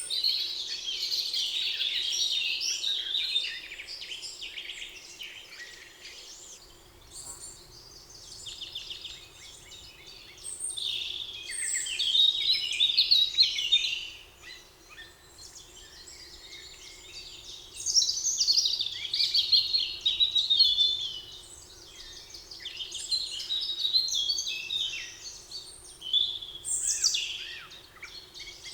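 Several songbirds singing in a forest: bouts of quick, high chirping and trilled phrases every few seconds, over a faint steady low hum.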